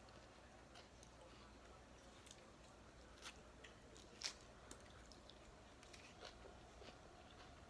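Faint chewing and crunching of a crisp fried tostada shell, close to the microphone: scattered soft crunches with one sharper crack a little past the middle.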